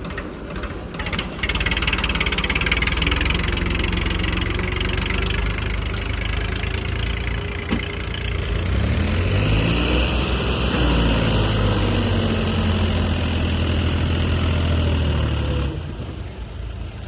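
Sonalika DI 47 RX tractor's diesel engine running while hauling a full load. Its revs climb about halfway through and hold high, then fall away near the end.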